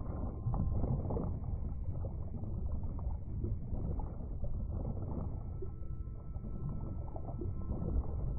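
Muffled underwater ambience: a steady, low rumbling wash of water, with faint held tones coming in about halfway through.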